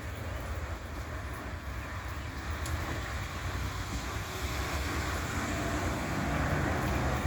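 Steady vehicle rumble and road noise, a low engine drone with a haze of traffic sound, growing louder in the second half.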